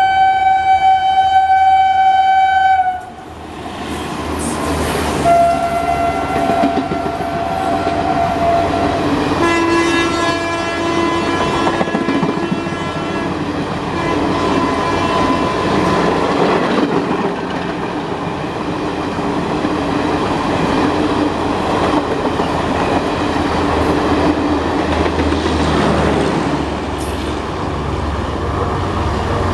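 Indian Railways express locomotive horn sounding for about three seconds and cutting off, then the express running through at speed, a steady rush with wheels clattering over the rail joints. Two quieter, lower horn notes sound a few seconds in and about ten seconds in.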